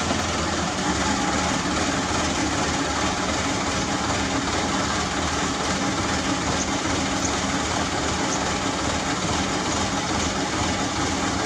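Hino truck's diesel engine running steadily at a constant speed.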